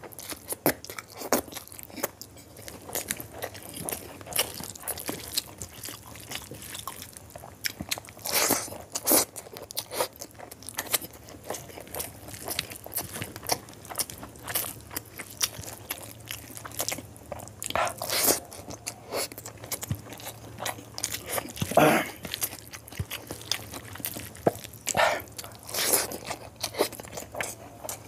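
Close-miked chewing of a mouthful of rice, boiled quail eggs and chicken curry eaten by hand, with many irregular short smacks and bites.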